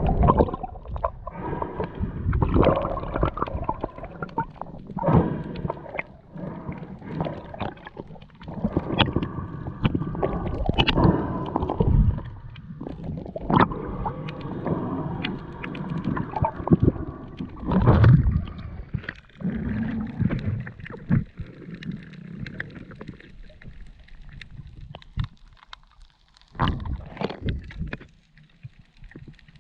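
Water gurgling and sloshing against the camera, muffled, coming in irregular surges that die down near the end.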